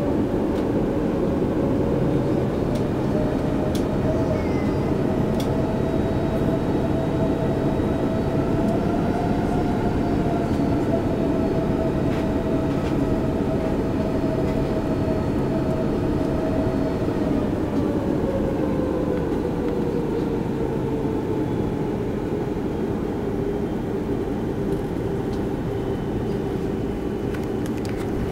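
Airbus A330-300 heard from inside the cabin during takeoff: the jet engines run with a steady low rumble from the airframe and wheels. A steady engine tone sinks in pitch about two-thirds of the way through.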